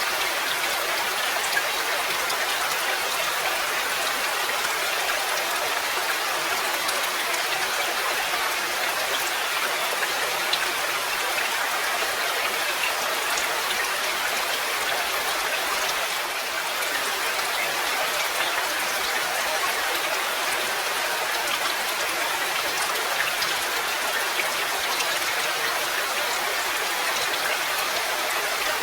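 Steady rain falling, a dense, even patter of many drops that eases very slightly for a moment about halfway through.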